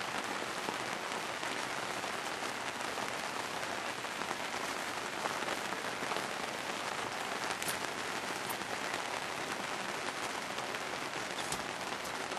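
A steady, even hiss like rain on a surface, with a few faint ticks scattered through it.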